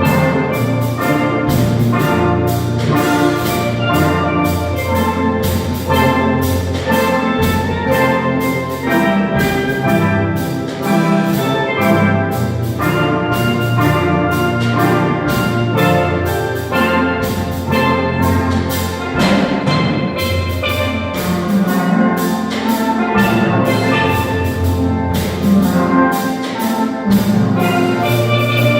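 Instrumental music led by steel drum notes from a steel drum sound module, playing a melody over a bass line and backing accompaniment.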